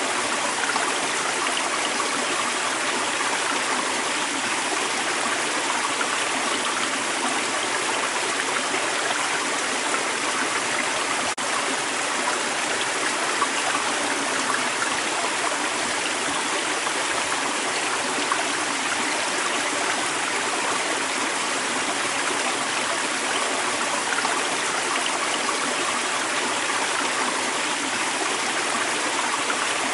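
Creek water running steadily over rocks: an even, unbroken rush with a light gurgle.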